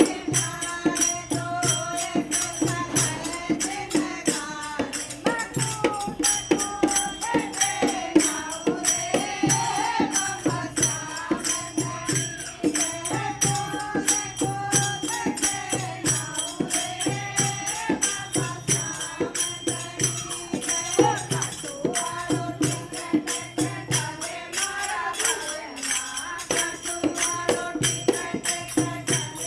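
Hindi devotional bhajan: a singing voice over a steady drum beat and shaken jingles. The drum drops out for a moment near the end.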